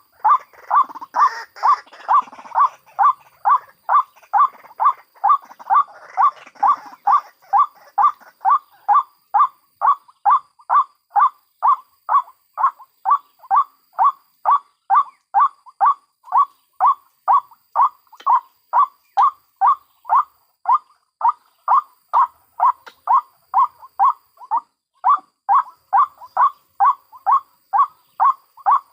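White-breasted waterhen (ruak-ruak) calling: a short note repeated evenly about twice a second. For the first several seconds a rougher chattering overlaps it.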